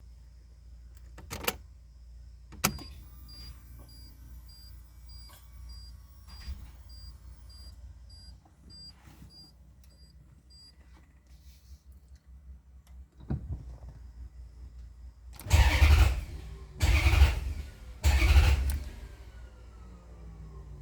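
Maserati GranSport V8 starter cranking in three short bursts of under a second each, the engine not catching: the starter cuts out early even with the start button held, a hard-starting fault that appeared after an alternator replacement. Before the cranking, a couple of clicks and a high dashboard chime beeping about twice a second.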